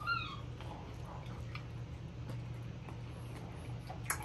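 Quiet eating sounds from a fried chicken wing being bitten and chewed: faint mouth clicks and smacks, a short high squeak with a falling pitch at the start, and a sharp click about four seconds in, over a steady low hum.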